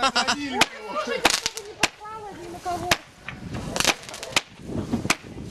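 Fireworks going off in a string of sharp cracks at irregular intervals, about ten in all, as shots launch and burst overhead.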